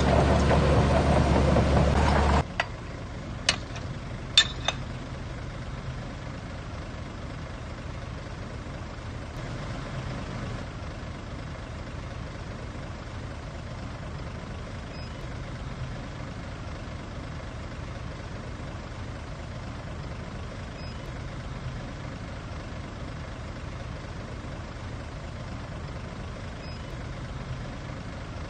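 Heavy diesel earthmoving machinery running loudly for about two seconds, then cutting abruptly to a quieter, steady idle-like engine sound. A few sharp clicks come just after the cut.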